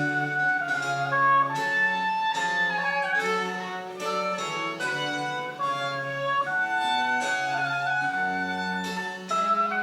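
Small Baroque ensemble playing French Baroque chamber music: bowed strings carry a melody in short notes over a moving bass line.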